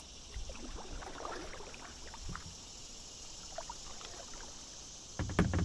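Kayak paddle dipping and dripping water, soft and scattered, over a steady high hum of insects; about five seconds in, a brief cluster of loud knocks.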